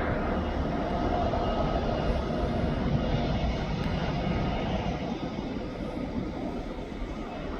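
Engines of a twin piston-engine Aerostar light aircraft running steadily, growing fainter in the last few seconds.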